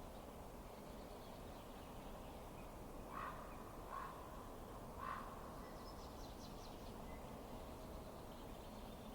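Faint steady low rush of a fireplace fire, with three short, sharp sounds a second or so apart around the middle.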